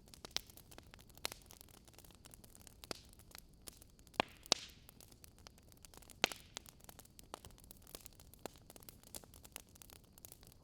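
Crackling wood fire: a faint steady hiss with irregular snaps and pops of burning logs, a few louder pops around the middle.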